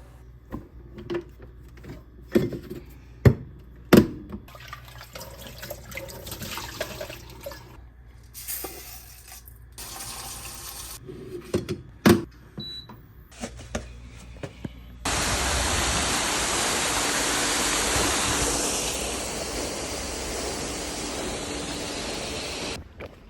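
Water running from a tap into a sink for several seconds, turned on abruptly and shut off just before the end. Before it comes a run of scattered light knocks and clatter, as of things being handled.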